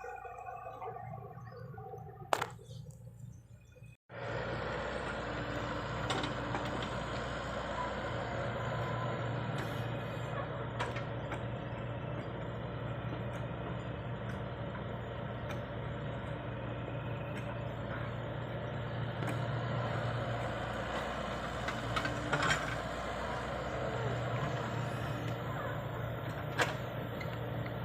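Heavy-equipment diesel engine running steadily, with a low hum and a few light knocks; it starts abruptly about four seconds in, after a quieter stretch of mixed sounds.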